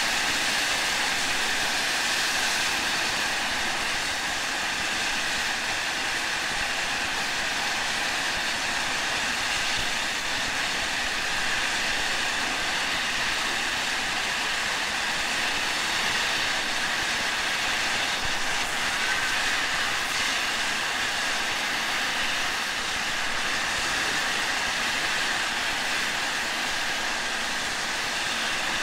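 A steam railroad field recording played from vinyl: the steady rushing noise of a train, even in level for the whole stretch, with no distinct exhaust beats or whistle.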